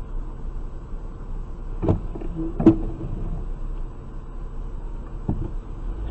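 A car running, heard as a steady low rumble through a dashcam, with two sharp knocks less than a second apart about two seconds in and a fainter knock near the end.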